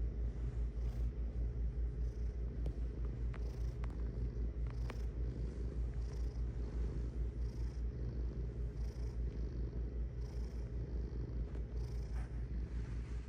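Domestic cat purring steadily, a low, fast, even pulsing. A few faint clicks come a few seconds in.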